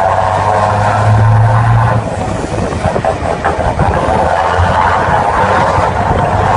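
Scania truck engine being revved with throttle blips: it is held at a higher, steady rev for about the first two seconds, drops back to a lower, rougher run, and rises again near the end.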